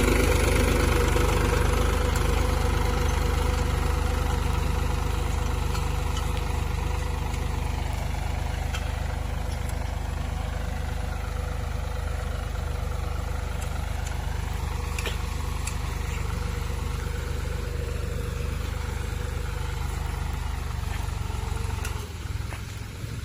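Tractor engine running steadily, slowly getting quieter, then dropping off near the end.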